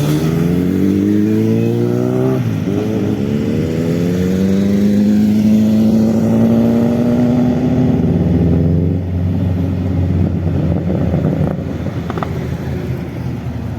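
Motorcycle engine accelerating hard, its revs climbing, then dropping sharply at an upshift about two and a half seconds in. It pulls up through the next gear, and after about nine seconds it becomes quieter and rougher as it goes away.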